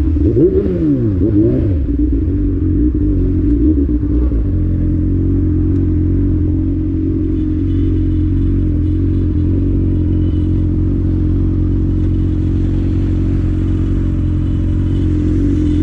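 Honda Hornet motorcycle engine revved up and down quickly several times over the first four seconds or so, then running at a steady speed while riding.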